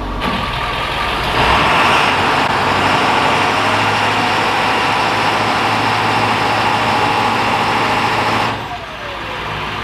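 School bus engine held at full throttle for a burnout, running loud and steady for about seven seconds, then easing off near the end.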